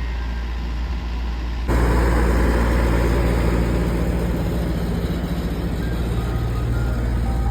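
Ice cream truck's engine idling with a steady low hum. It turns suddenly louder and rougher about two seconds in, after faint notes of its chime tune at the start.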